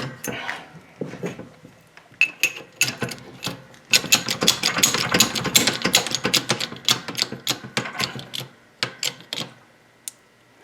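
Rapid metal clicks and rattles of tools and steel parts being handled while a press is set up on a VW front beam's kingpin, the clicking densest in the middle and dying away near the end.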